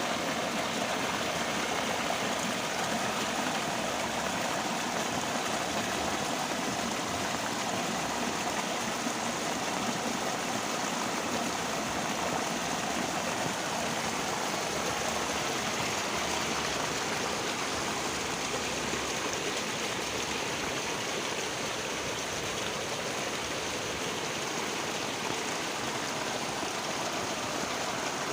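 Heavy rain falling, a dense, steady hiss with no let-up.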